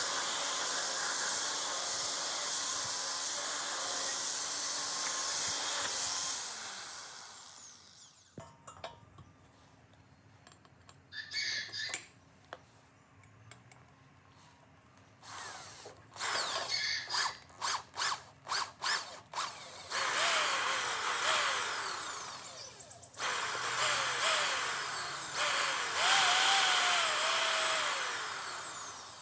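A handheld power tool, such as a drill, running in stretches: a long run that winds down, then a quick series of short trigger bursts, then two more runs whose pitch slides down under load.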